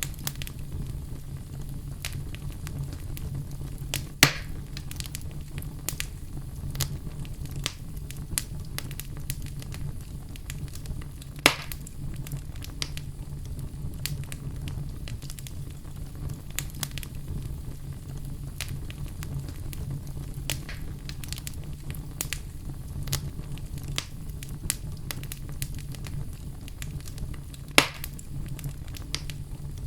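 Wood fire in a fireplace crackling steadily over a low rumble, with many small crackles and three louder pops: about four seconds in, around eleven seconds, and near the end.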